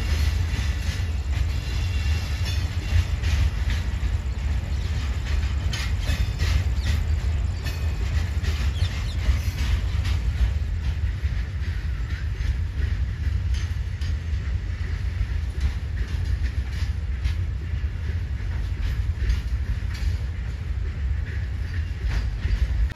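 Train running along the track: a steady heavy low rumble with wheels clattering over the rail joints.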